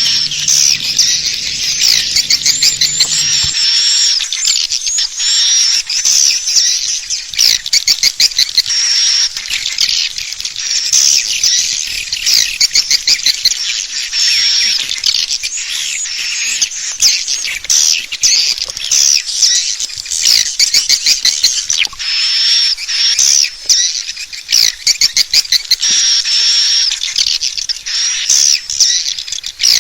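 Swiftlet lure-call recording: a dense chorus of swiftlets twittering, with high-pitched chirps and rapid clicking trills overlapping without pause. It is the call sound played at swiftlet nest houses to draw the birds in to roost.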